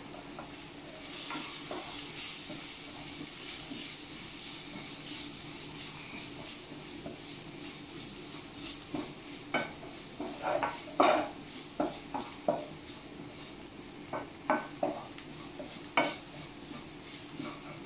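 Chopped onions, green chillies, ginger and garlic sizzling in oil in a non-stick wok as they are sautéed with spice powders, stirred with a wooden spatula. Through the second half the spatula scrapes and knocks against the pan in sharp, irregular taps.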